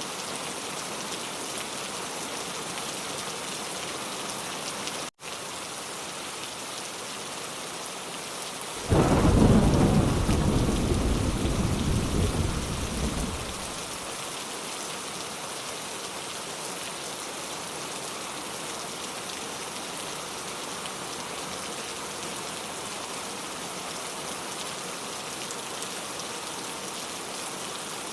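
Steady rain falling, with a sudden clap of thunder about nine seconds in that rumbles for around five seconds and fades away. The sound cuts out for an instant about five seconds in.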